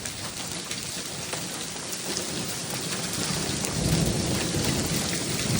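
Hail and heavy rain pelting down: many sharp ticks of hailstones over a dense steady hiss, growing louder, with a low rumble swelling about four seconds in.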